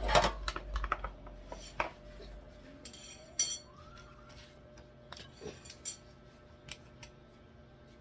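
Hard objects being handled: irregular clatter and clicks, busiest and loudest at the start, with a sharp knock with a short metallic ring about three seconds in, then scattered lighter ticks.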